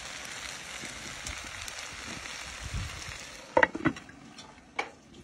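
Pork skins and vegetables sizzling in a frying pan with a steady hiss that fades after about three seconds. A couple of loud sharp knocks follow, with a smaller one near the end.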